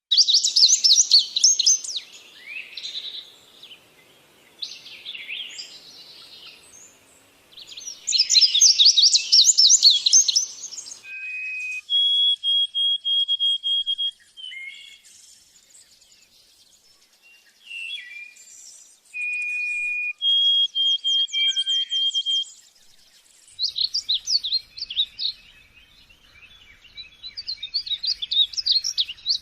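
Songbirds singing: loud bursts of rapid, buzzy trills alternate with runs of clear, evenly repeated whistled notes.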